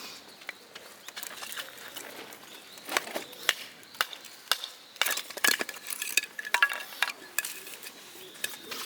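Metal camping gear being handled: a run of sharp clinks and clicks, sparse at first and coming thick and fast from about three seconds in.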